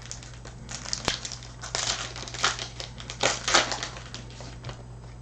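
Trading-card pack wrapper crinkling and being crumpled, a string of crackly bursts lasting about three seconds, loudest near the middle, as a new pack is opened.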